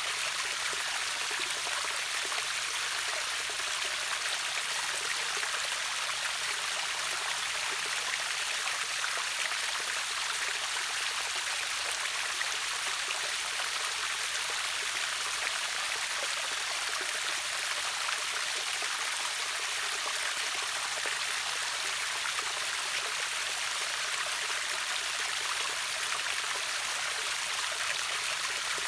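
River waterfall: water rushing steadily, an even hiss with little low rumble and no change in level.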